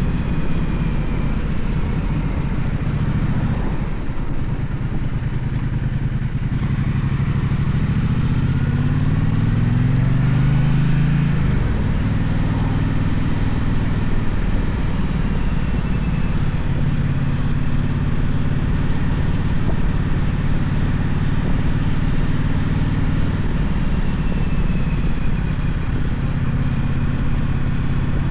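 Gaokin GK1200 motorcycle engine under way. It rises in pitch for several seconds as it accelerates, drops sharply about twelve seconds in, then runs at a fairly steady speed over a constant rush of road noise.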